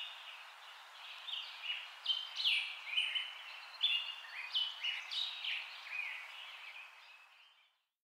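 Small birds chirping and twittering in quick, short notes over a soft steady hiss, fading out just before the end.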